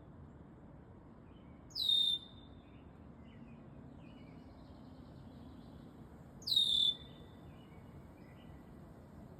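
Bird calls: a loud, short call sweeping down in pitch, given twice about four and a half seconds apart, with fainter chirps from other birds in between.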